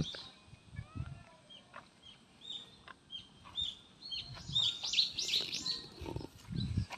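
Small birds chirping: many short, repeated, arching chirps, coming thickest and loudest in the second half.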